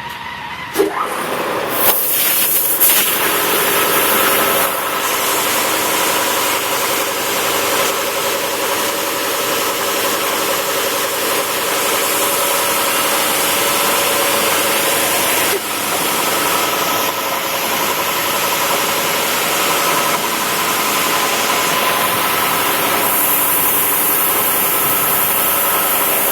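Automatic car wash machinery running, a loud steady hiss and whir that comes on about two seconds in, over a motorcycle engine left idling.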